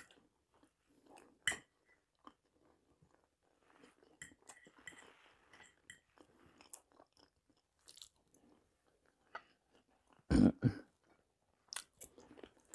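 Close-up chewing of food at a lapel mic, with soft mouth and crunching sounds. A fork clicks on a plate about a second and a half in, and there is a louder knock around ten seconds in.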